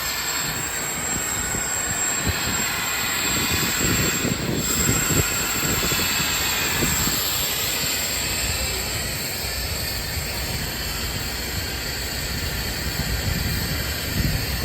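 Steady rumble of diesel truck engines and traffic, with an uneven low buffeting underneath and a faint high hiss.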